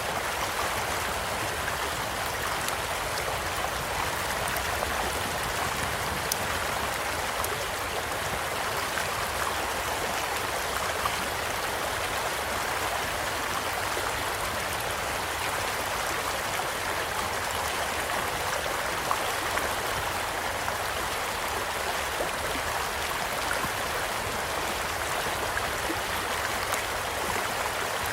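A small stream running with a steady, even rush, and a wood campfire giving off occasional sharp crackles and pops.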